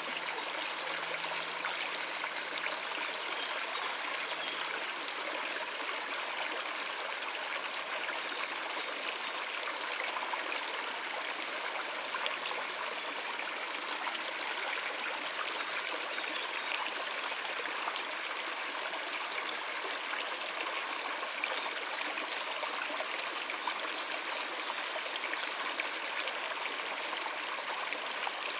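Shallow stream running over rocks: a steady, even babble and trickle of water with no let-up.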